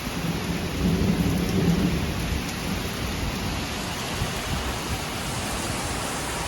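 Heavy rain pouring steadily during a thunderstorm, with a deep rumble of thunder swelling about a second in and fading away over the next second or so.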